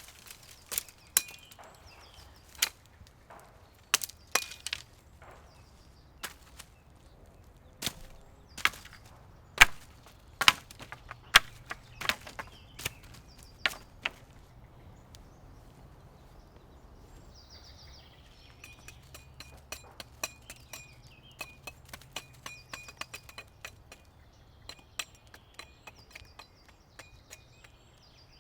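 Irregular sharp knocks and cracks, about one a second through the first half of the stretch, then a lull; in the second half, faint high repeated chirps over lighter ticks.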